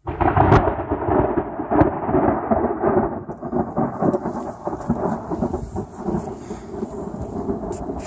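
Heavy rainstorm from a falling-apart hurricane: loud, dense rain and storm noise that starts abruptly and eases a little after about three seconds, with a faint steady hum underneath.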